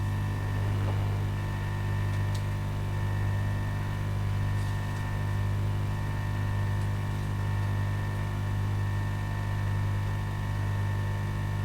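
Steady electrical mains hum with a faint high whine, unchanging throughout, from the repair bench's powered equipment.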